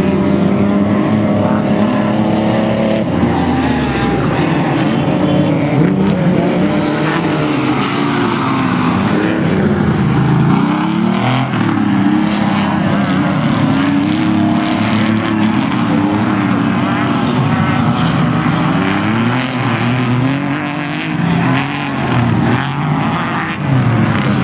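Off-road race vehicle engine running hard, its pitch rising and falling again and again with throttle and gear changes, over a steady rush of wind and rough-terrain noise.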